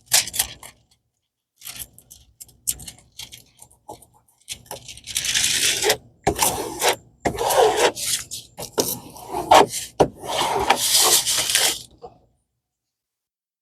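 Handling of a rolled diamond-painting canvas and its plastic cover film: irregular crinkling, rustling and scraping in bursts, cutting off abruptly near the end.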